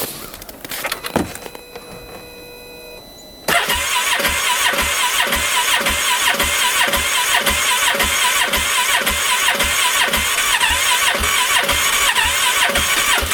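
A 2015 Polaris Ranger 570's single-cylinder engine being cranked on the electric starter. A few clicks come first, then about three and a half seconds in the cranking starts suddenly, a steady rhythmic chug of about three strokes a second over the starter's whine, without the engine catching. This is a cold-weather start attempt on an engine the owner thinks he has flooded.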